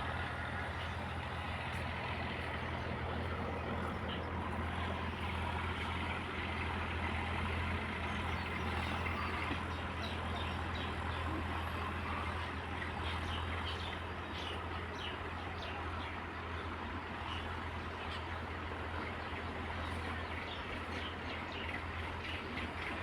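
Steady outdoor background noise: a constant low hum under an even hiss, with faint short high chirps through the middle stretch.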